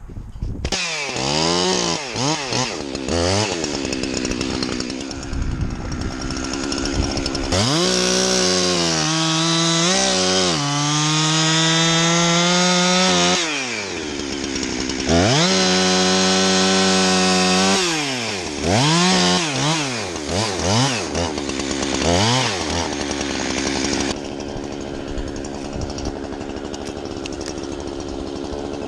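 Two-stroke chainsaw revving up and down in quick blips, then held at high revs twice for several seconds at a time, as when cutting through wood. It drops back to a steady idle about four seconds before the end.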